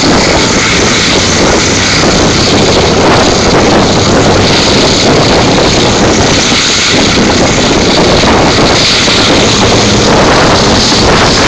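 Loud, steady rush of wind over a microphone held out of a moving passenger train's window, with the train's running noise underneath.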